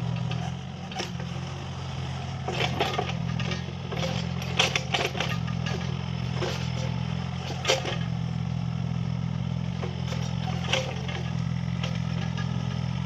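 Mini excavator's diesel engine running steadily as it works, with scattered metallic clanks and knocks every second or two.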